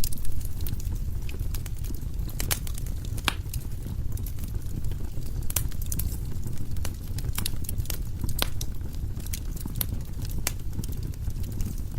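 Wood fire burning in a fireplace: firewood crackling with sharp, irregular pops, over a steady low rumble of the flames.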